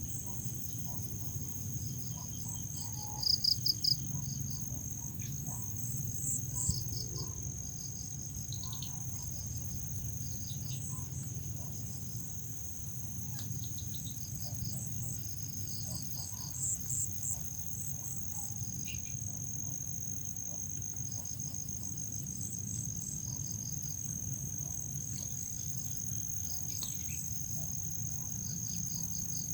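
Crickets chirping: one keeps up a steady high-pitched trill while others chirp in short pulsed bursts, a few of them louder a few seconds in and again about halfway through. A steady low rumble sits beneath.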